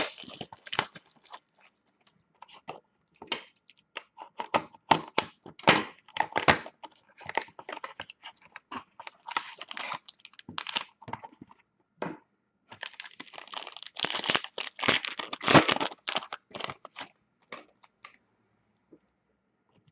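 Sealed hockey card packaging being torn open and handled: irregular crinkling and tearing of wrapper, coming in spurts, busiest past the middle and dying away near the end.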